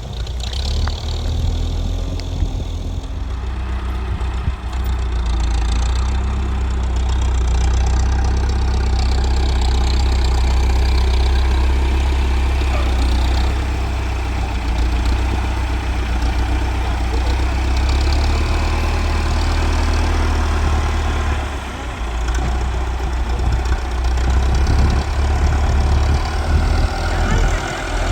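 Tractor engine running steadily and loudly, with its level swelling and easing a little and dipping briefly about three-quarters of the way through.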